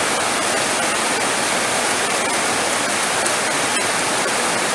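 Heavy rain falling as a steady, dense hiss.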